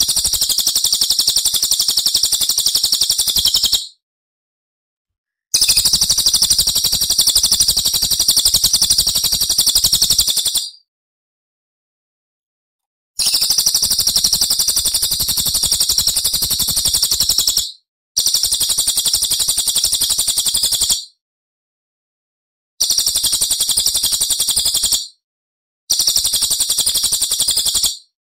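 Small songbird's very rapid, high-pitched trilled song, repeated in six phrases of two to five seconds each. Each phrase cuts off abruptly into dead silence before the next begins, as in an edited bird-song master recording.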